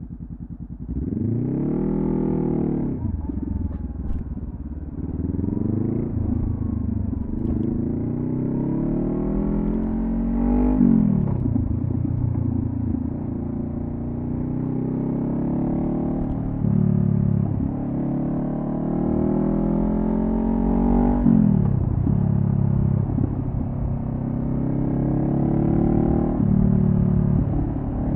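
2014 Honda CB500F's parallel-twin engine through a Delkevic carbon slip-on exhaust, under way on the road. The revs climb and fall over and over, with several sudden drops in pitch as gears change.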